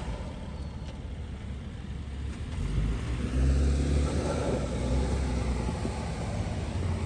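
Car engine running as the car is driven slowly, its low rumble growing louder about three seconds in.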